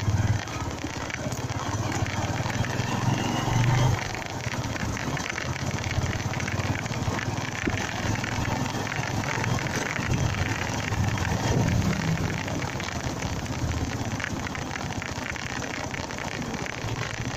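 Honda MegaPro motorcycle's single-cylinder engine running on the move, under steady wind and road noise; the engine's low note swells and eases several times.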